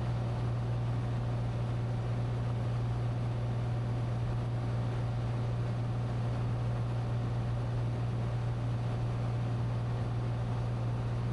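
Steady drone of a Cessna 182T's single piston engine and propeller in cruise, heard in the cockpit through the headset/intercom audio, with a strong low hum and an even hiss above it.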